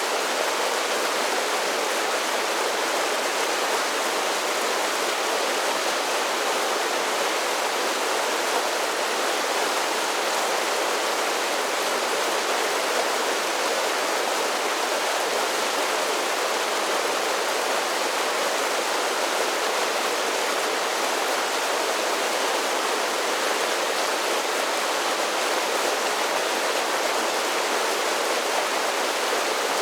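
Mountain creek rushing over a series of small waterfalls: a steady, even splashing and rushing of water, mostly in the middle and high range with little low rumble.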